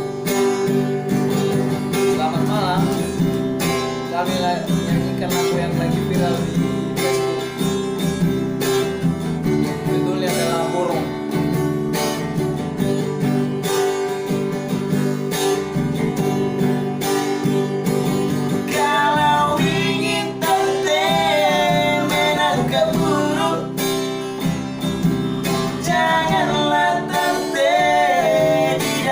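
Music: an acoustic guitar strumming a song's introduction, with a bending melody line, vocal or instrumental, coming in about two-thirds of the way through.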